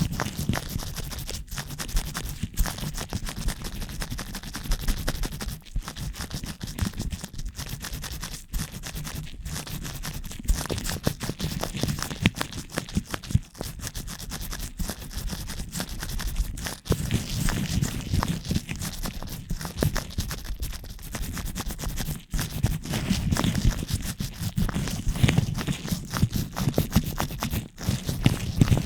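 Latex-gloved fingers rubbing and scratching right on a microphone: a continuous close scratchy noise full of small clicks, over a low rumble from the mic being handled.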